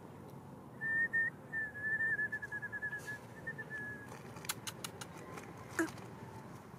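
A bird calling: a thin, high whistled note, then a fast trill of short notes at the same pitch, about eight a second, lasting some two and a half seconds. A few sharp clicks follow, then a brief falling whistle.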